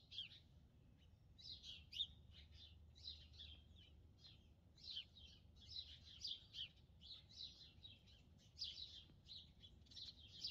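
Faint songbirds chirping: many quick, high, repeated chirps and short descending notes, a few at a time, over a faint low steady hum.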